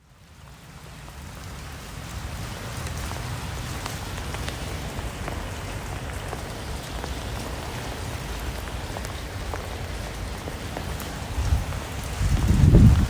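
Steady rain falling, a fine even hiss with scattered sharp drop hits, fading in after a brief silence at the start. A louder, low, gusting rumble rises near the end.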